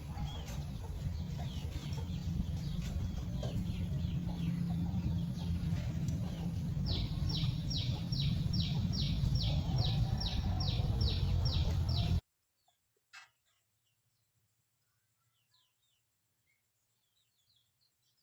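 Bird chirps over a strong low rumble. About seven seconds in, a bird starts a quick series of descending chirps, a couple a second. About twelve seconds in the sound cuts off abruptly, leaving only faint, scattered chirps.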